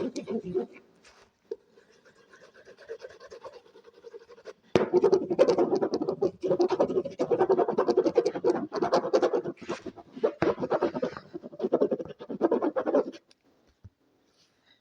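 Rapid scratching ASMR trigger. It is faint for the first few seconds, turns loud and dense about five seconds in with short breaks, and stops a little before the end.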